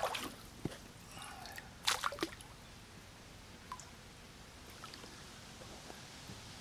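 Water splashing and dripping in short bursts: a cluster right at the start and a louder one about two seconds in, then a few faint drips.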